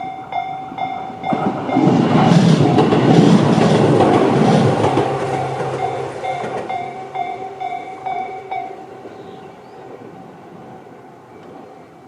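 Tobu 10000 series electric train passing over a level crossing, its wheels clattering on the rails, loudest from about two to five seconds in and then fading. Through it the crossing's electronic alarm bell (Tobu-type sound C) rings at about two and a half strokes a second, stopping about nine seconds in as the train clears.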